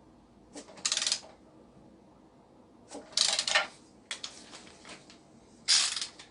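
Ratchet of an adjustable torque wrench clicking rapidly in four short bursts.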